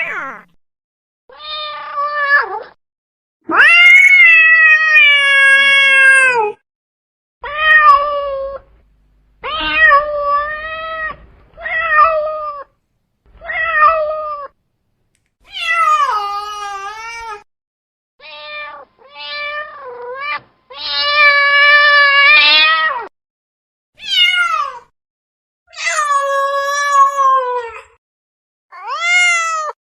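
Domestic cat meowing over and over: about fifteen separate meows with short silences between them, some short and some long and drawn-out, most falling in pitch at the end.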